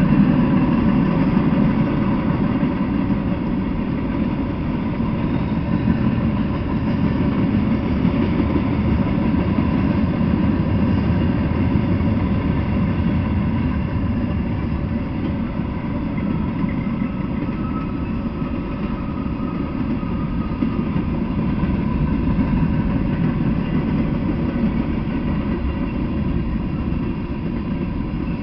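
Freight train rolling past steadily: a continuous low rumble of steel wheels on the rails, with a faint steady hum on top.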